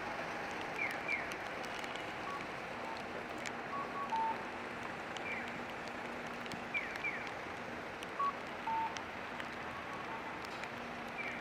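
Steady rain hiss with the electronic chirps of a Japanese pedestrian crossing signal: short falling chirps repeating in a single-then-double pattern every few seconds. A few short electronic beeps sound in between.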